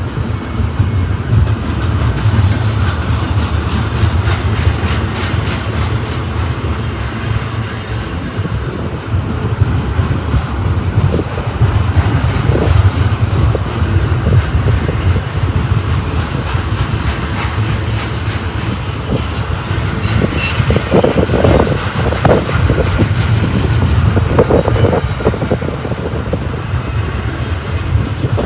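Freight train rolling past with a steady low rumble and rapid clicking of wheels over the rails. A few faint high wheel squeals come between about two and seven seconds in.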